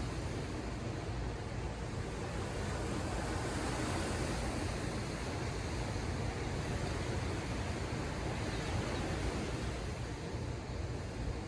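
Ocean surf washing ashore: a steady rushing wash over a low rumble, swelling slightly a few seconds in and easing again.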